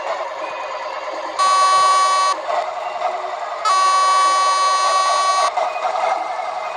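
Scania truck's horn sounding two long steady blasts, the second nearly twice as long as the first, over the truck's running engine.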